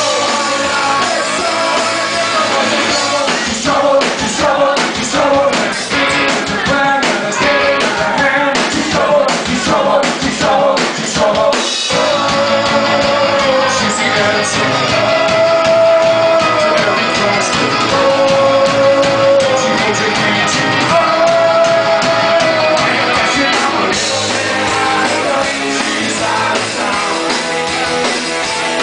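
Rock band playing the instrumental opening of a song.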